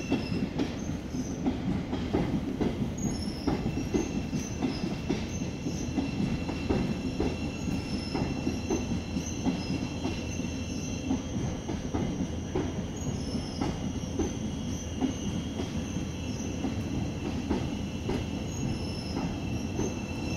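Class 717 electric multiple unit running slowly into the platform, its wheels squealing on the rails with steady high-pitched tones over a low rumble, and repeated clicks as the wheels pass over rail joints.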